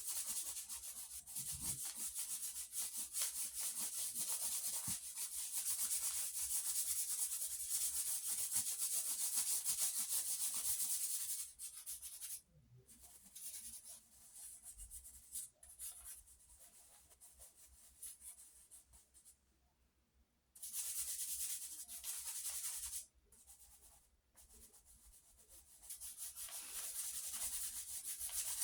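Pencil shading on paper: quick rubbing, scratchy strokes in long dense stretches, with quieter, sparser strokes between about 12 and 20 seconds in and short gaps near 20 and 24 seconds.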